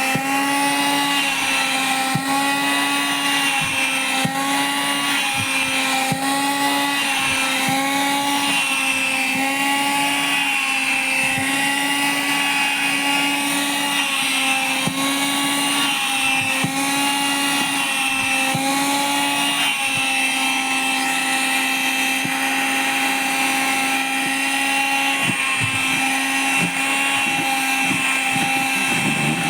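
Vacuum cleaner motor running with a steady whine, its pitch dipping and recovering about once a second as cloth is sucked against the nozzle and chokes the airflow. About two-thirds of the way through the pitch holds steadier.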